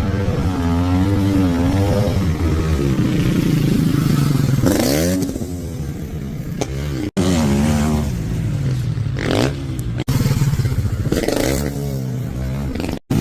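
Dirt bike engine revving up and down, its pitch rising and falling repeatedly. The sound breaks off abruptly about 7 and 10 seconds in where short clips are cut together.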